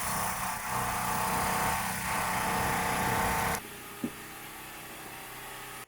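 A small engine running steadily with a dense mechanical noise, stopping abruptly about three and a half seconds in. A quieter steady hum follows, with a single short tick.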